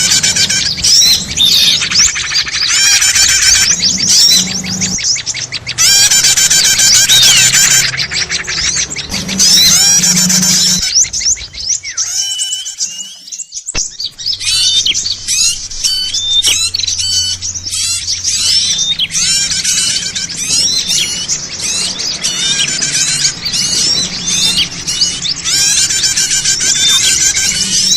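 A bird-lure recording of many small songbirds calling at once: dense overlapping chirps, rapid trills and quick sweeping whistles, with a short lull about halfway through.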